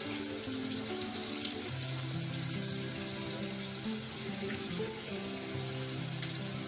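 Onions and capsicum frying in oil in a wok, a steady sizzle with a few faint crackles, under background music of held notes that step from one pitch to another.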